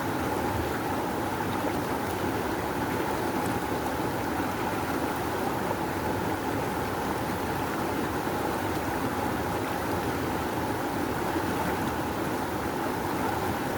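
Rushing river water flowing steadily, a continuous even roar of current.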